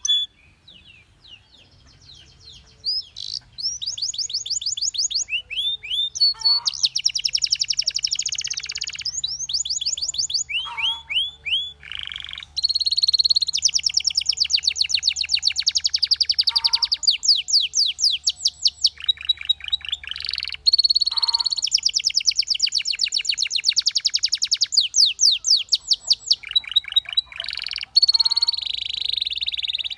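Canary singing: after a short quiet start, long phrases of fast trills, each a rapid run of repeated high notes, follow one another with brief breaks.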